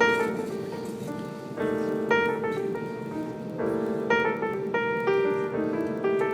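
Piano music: notes and chords struck in a steady, unhurried pattern, a new chord entering about every half second to a second.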